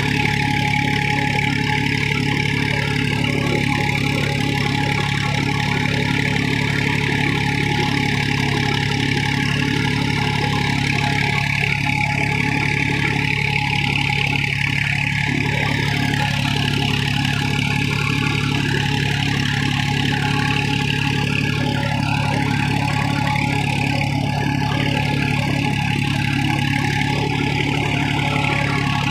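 Tractor's diesel engine running steadily at a constant speed while pulling a cultivator.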